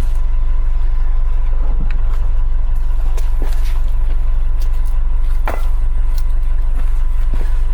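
A steady, loud low rumble, with a faint steady tone above it and a few scattered light clicks.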